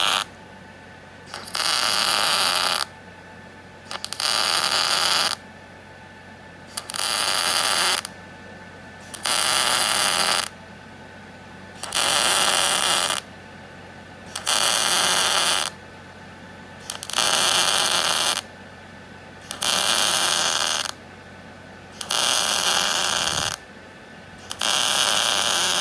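Welding arc on a steel base plate and flag pole, crackling in short bursts of about a second each, repeated about eleven times at an even pace, as the seam is stitch-welded closed to seal it.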